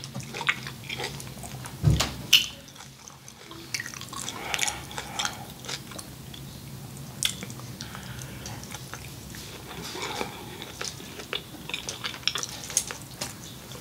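A person chewing a mouthful of beef: a run of soft, wet mouth clicks and smacks, with one louder knock about two seconds in.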